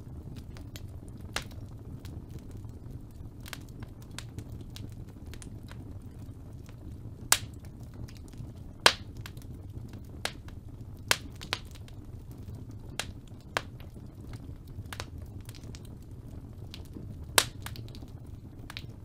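Sharp clicks and pops at irregular intervals, about a dozen, over a steady low hum. The loudest come a little past a third of the way in, just before halfway, and near the end.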